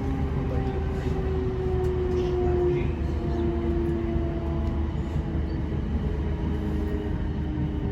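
Class 455 electric train running between stations, heard from inside the carriage: a steady low rumble of wheels on the track with a whine holding a few steady tones.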